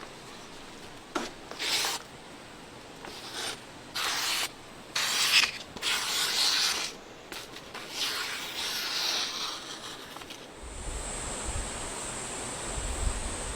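Rubbing strokes on a workpiece, like sanding: a series of short scraping passes of about half a second to a second each, irregularly spaced. From about ten and a half seconds a steady low rumble sets in with a thin high whine.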